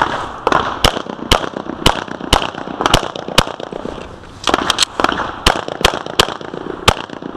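Handgun shots fired in quick succession during a timed IDPA stage string, about two a second, with a gap of about a second near the middle before a faster run of shots.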